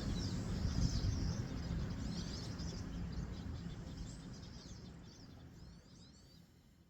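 Small birds chirping in short, high, quickly sliding calls every second or two over a low, steady rush of water. The whole fades out steadily toward the end.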